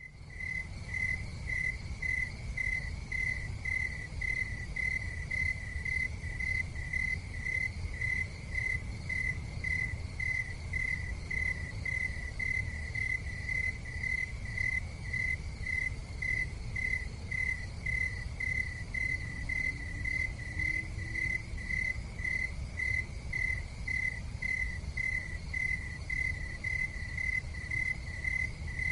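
A cricket chirping steadily, about one and a half high chirps a second, over a low steady rumble.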